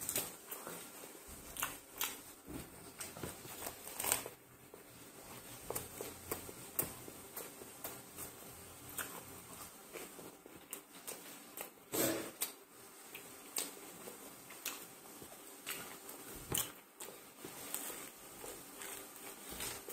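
A person biting into and chewing a stuffed kebab sandwich: irregular soft clicks and wet mouth smacks, with louder ones about four seconds in and about twelve seconds in.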